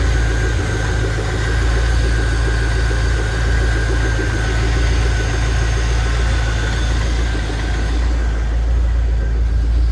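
GM 350 (5.7 L) small-block V8 idling steadily, left running to warm up after a thermostat repair. A faint thin whine sits over the idle and fades about seven seconds in.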